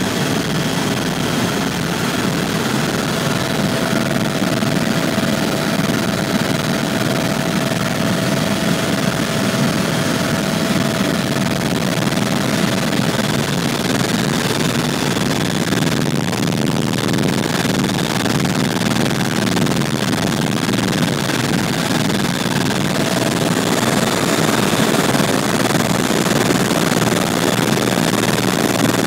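Tour helicopter in flight, heard from aboard: a loud, steady drone of engine and rotor noise with a faint whine held in it.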